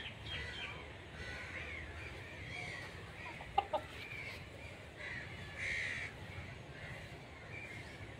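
Birds calling repeatedly, short harsh calls scattered throughout, with two brief sharp louder sounds about three and a half seconds in.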